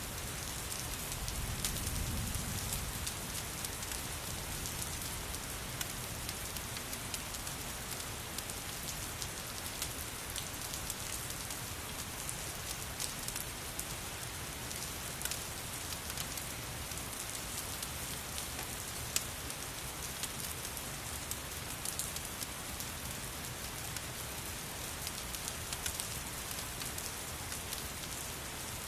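Steady rain falling, with many small scattered ticks and pops on top, which fits the crackling of a fireplace mixed into the rain. A soft low rumble swells in the first few seconds, then fades.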